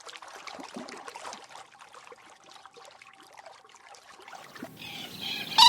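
Faint trickling and light splashing of shallow water. A louder sound builds in the last second, and a sharp, loud sound comes right at the end.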